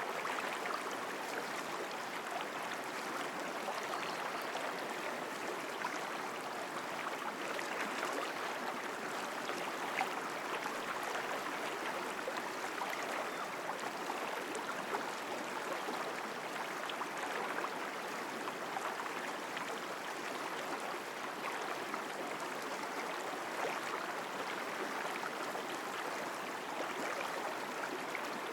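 Mountain stream flowing strongly over rocks, a steady rushing and splashing of water.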